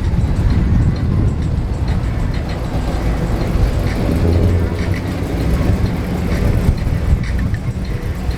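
A vehicle engine running, a heavy, uneven low rumble.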